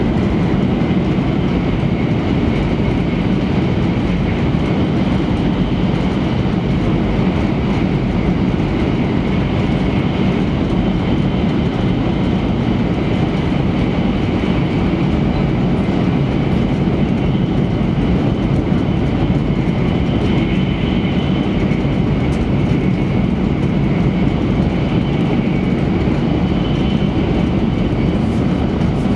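Cabin noise inside an E3-series Shinkansen train running at speed: a steady rumble of wheels and running gear on the track, with a faint high whine that comes and goes.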